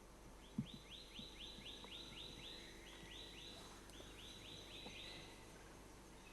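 A small bird calling a fast, even run of short high notes, each rising then falling, about four a second for some four seconds. It is faint, with a soft low thump just before the calling starts.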